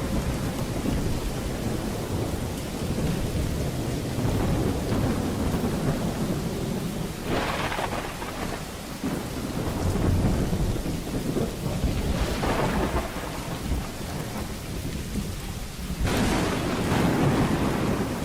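Thunderstorm: steady rain with low, continuous thunder rumbling throughout. Sharper claps stand out about seven and a half seconds in, around twelve seconds in and near the end.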